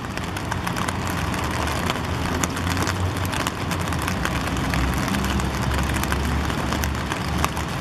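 Steady rain, with many raindrops ticking close by, over a low rumble that swells twice.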